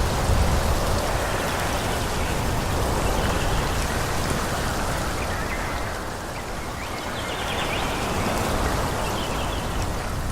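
Wind rushing steadily through a forest, easing a little just past the middle and then picking up again.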